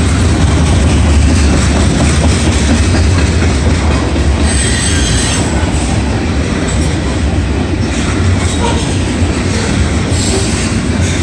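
Loaded covered hopper cars of a CSX freight train rolling past, a steady heavy rumble of steel wheels on rail. Brief high-pitched flare-ups of wheel noise come about four and a half seconds and ten seconds in.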